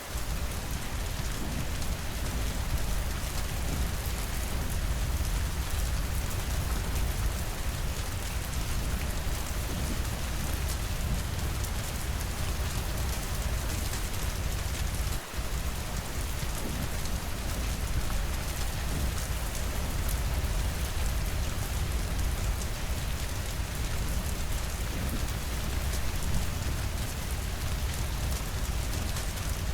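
Steady heavy rainfall pattering on a cabin's windows, with a deep low rumble underneath; the level dips briefly about halfway through.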